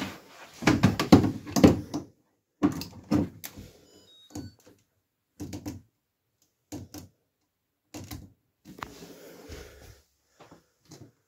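Irregular knocks, clunks and clicks of handling at a front-loading washing machine, in clusters with short gaps between them. A few faint, short, high beeps come about four seconds in.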